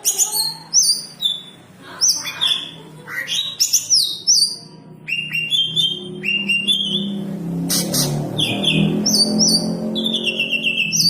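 Several green leafbirds (cucak ijo) singing busily: quick runs of chirps and whistled notes, many falling in pitch, overlapping without a break. A low steady hum sits underneath from about halfway through.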